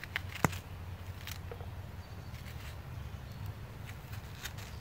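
A knife cutting an onion: a few sharp, irregular taps and clicks, one louder about half a second in, over a low steady rumble that stops just after the end.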